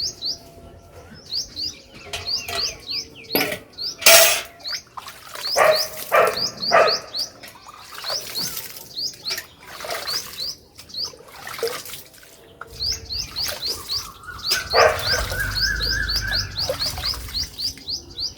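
Small birds chirping rapidly and repeatedly, with a few sharp knocks in between. A low rumble with a wavering tone comes in for a couple of seconds near the end.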